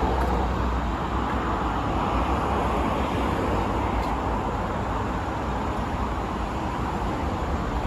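Steady road traffic noise: a continuous wash of passing cars with a low rumble, no single vehicle standing out.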